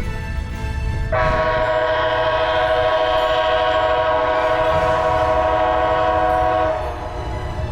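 Train locomotive horn sounding one long blast of several notes at once. It starts about a second in and cuts off near the end, over a steady low rumble from the train.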